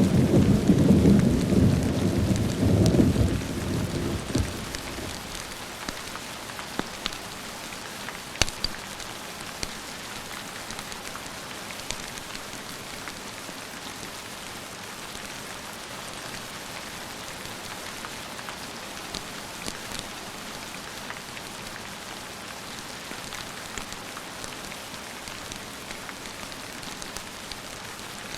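A roll of thunder rumbling and dying away over the first four or five seconds. It leaves steady rain falling, with scattered sharp ticks from drops or small pops.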